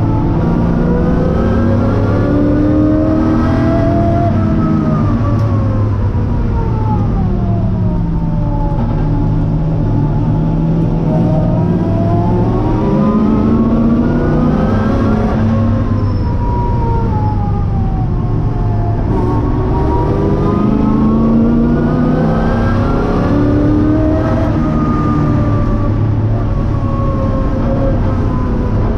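Porsche 928 race car's V8 engine heard from inside its stripped cabin, running hard with the revs climbing and falling in slow sweeps of several seconds each, about three times over.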